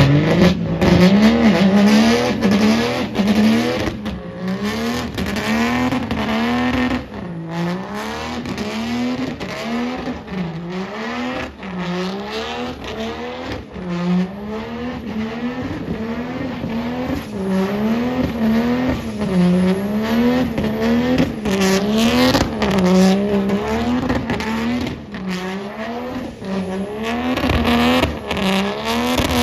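Truck engine revving up and falling back over and over, about once a second, during a burnout, with tyre squeal and noise under it.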